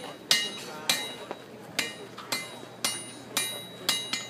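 Blacksmith's hammer striking metal on an anvil, about two blows a second, each blow ringing briefly.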